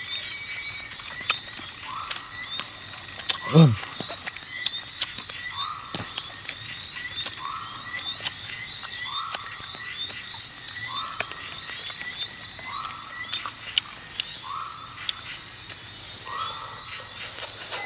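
Outdoor animal ambience: a short call repeating about every two seconds over steady insect trilling and scattered small clicks, with one louder falling cry a few seconds in.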